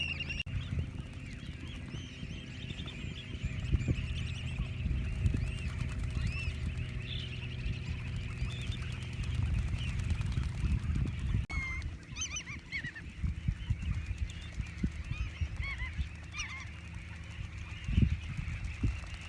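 A flock of geese honking, with many calls overlapping continuously and a few louder calls standing out about two-thirds of the way in, over a steady low rumble.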